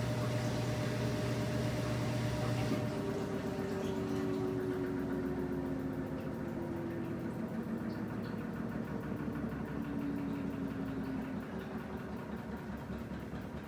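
Washing machine running with a steady churning noise. About three seconds in, its low hum stops and the sound changes; then a motor tone slowly falls in pitch over several seconds, and another tone comes in near the end.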